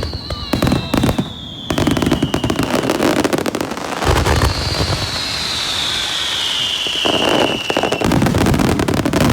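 Fireworks display: repeated sharp bangs and dense crackling with low booms, and a high whistle falling slowly in pitch, heard twice.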